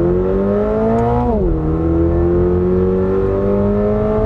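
2022 Subaru BRZ's 2.4-litre flat-four under hard acceleration, heard from inside the cabin. The revs climb, drop sharply at an automatic upshift about a second and a half in, then climb again more slowly in the next gear.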